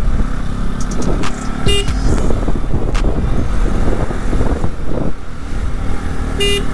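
Bajaj Pulsar NS200 single-cylinder engine running steadily while riding on the road. A vehicle horn beeps briefly twice, about two seconds in and again near the end.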